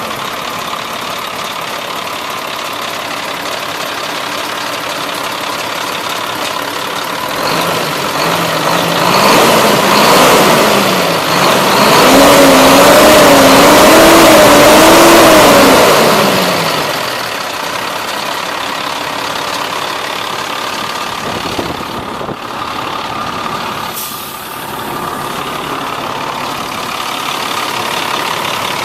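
1997 International 2674 crane truck's diesel engine idling after start-up, revved up about eight seconds in, held high for a few seconds, then let back down to idle.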